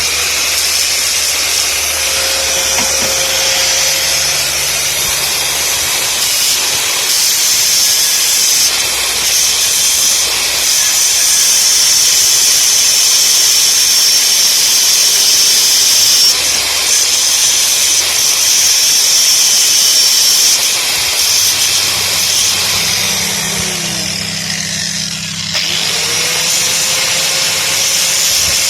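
Electric angle grinder grinding a metal bracket: a loud, steady, hissing whine. Near the end the disc slows, its pitch falling, then spins back up and carries on.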